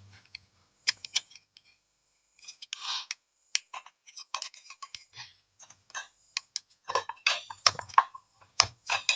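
Irregular sharp clicks, clinks and short scrapes of hand tools and small metal parts being handled while a scooter engine is dismantled.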